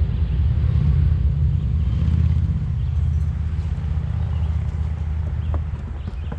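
Steady low rumble that eases slightly toward the end, with two light knocks near the end.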